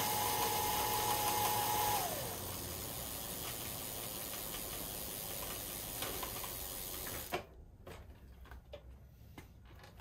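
Bafang 750W electric bike motor running free on the throttle with no load: a steady high whine for about two seconds, then the pitch drops as the throttle is let off and the drivetrain keeps whirring as it spins down. The whirring cuts off suddenly about seven seconds in, followed by a few faint clicks.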